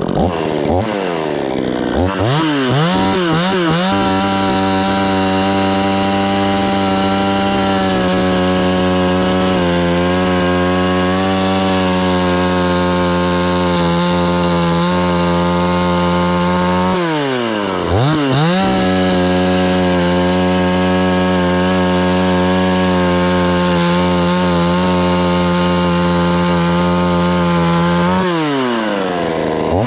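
Two-stroke chainsaw run up to high revs and held there, cutting wood. It eases off and revs back up about halfway through, and drops back toward idle near the end.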